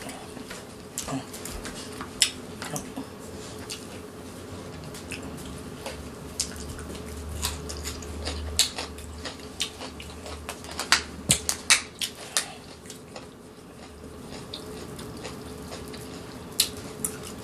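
Close-up eating sounds: wet chewing and mouth clicks, with scattered sharp clicks and taps over a steady low hum.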